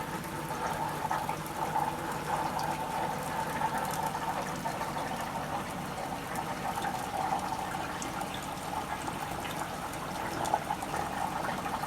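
Water in a reef aquarium system running and trickling steadily.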